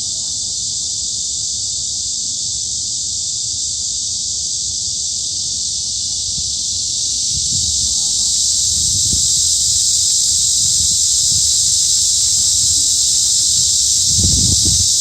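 Dense chorus of cicadas singing in one continuous, unbroken high buzz that swells a little louder about halfway through. Brief low rumbles come in about halfway and again near the end.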